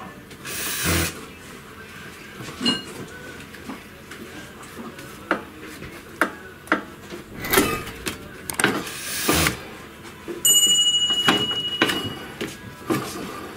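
Irregular hammer knocks and taps on metal in a workshop, as the worn crankshaft splines of a cultivator engine are being peened, with a few short scrapes of tools being handled. Near the end a bright metallic ringing tone sounds for about a second and a half and fades.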